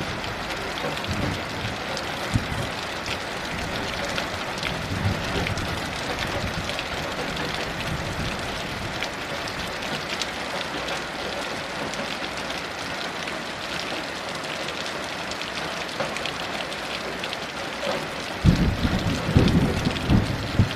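Steady heavy rain falling, with a low rumble of thunder rolling in near the end.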